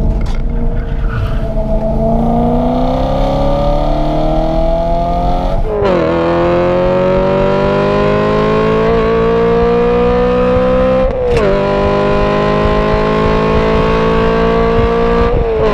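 BMW E90 M3's 4.0-litre naturally aspirated V8, breathing through an AME aftermarket exhaust, accelerating hard through the gears, heard from inside the cabin. The engine note climbs steadily in pitch, and a quick upshift drops it sharply three times: about six seconds in, again about eleven seconds in, and right at the end.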